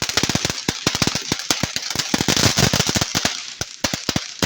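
Crackling firework going off: a rapid, dense string of sharp cracks over a hiss, thinning to scattered cracks near the end.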